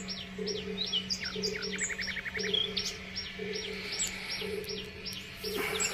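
Small birds chirping: a sharp falling chirp repeated about twice a second, with a short rapid trill about two seconds in, over a steady low hum.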